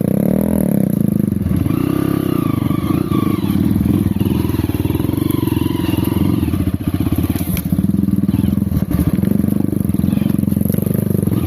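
Off-road dirt bike engine running at low speed, its revs rising and falling.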